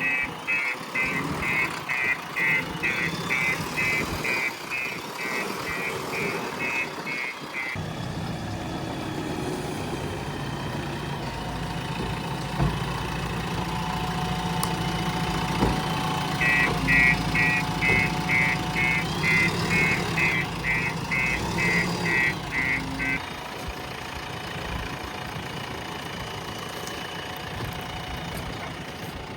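A heavy machine's engine running while a reversing alarm beeps steadily, about two or three beeps a second. The beeping stops after about eight seconds, the engine grows louder, and the alarm beeps again for about six seconds.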